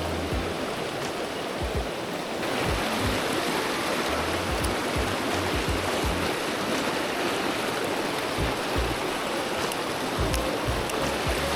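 Mountain stream water rushing over rocks, a steady wash of noise that gets louder about two and a half seconds in. Low thumps on the microphone come and go throughout.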